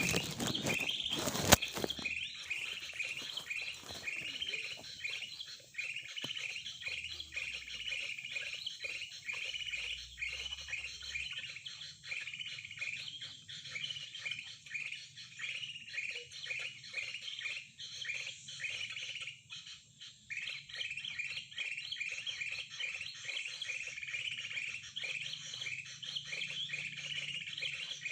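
A bird chirping over and over in quick short notes, a few a second, in an unbroken run. A sharp knock sounds about one and a half seconds in.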